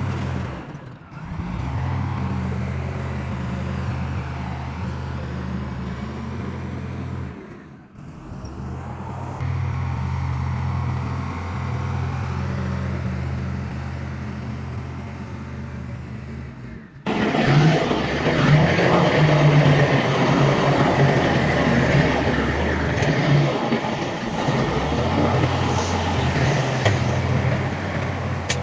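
Diesel engines of heavy earthmoving machinery running steadily, broken by several abrupt cuts. A little past halfway it turns louder and rougher, with a dense noise over the engine.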